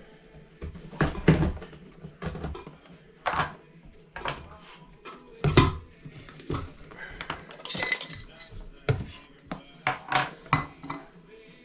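Kitchenware clattering as coffee is made: pots, cups and utensils knocking and clinking in an irregular series of sharp strikes, the loudest about a second in and again midway.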